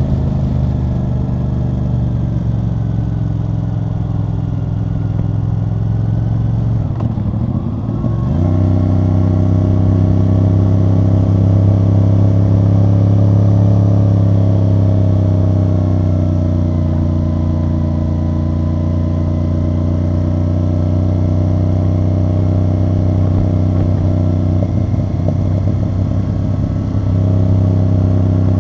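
CFMoto CL-C 450 parallel-twin motorcycle engine running through a loud aftermarket exhaust while riding. The note sinks slowly, breaks briefly about seven seconds in, then settles into a steadier, stronger drone, with another short unsettled patch near the end.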